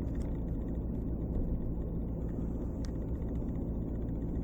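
Steady low rumble, like an engine or vehicle running.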